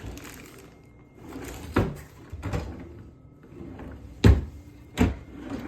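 Doors knocking as they are opened and shut: three sharp bangs, the last two close together, with quieter handling and rustling between them.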